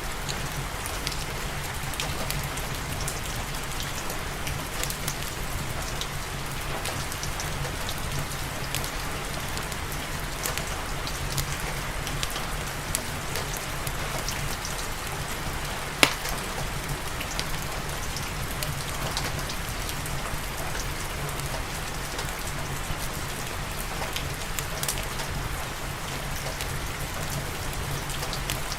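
Steady rain falling, mixed with fireplace crackles: scattered small pops and one sharp loud pop a little past halfway.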